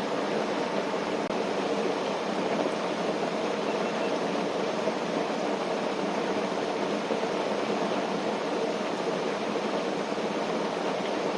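Steady, even rushing noise of outdoor nature ambience, with no separate crackles, knocks or drops standing out.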